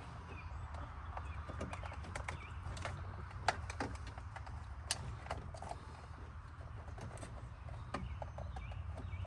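Scattered light clicks and taps from plastic dash trim and parts being handled and fitted back into place, over a steady low hum, with a few faint bird chirps in the background.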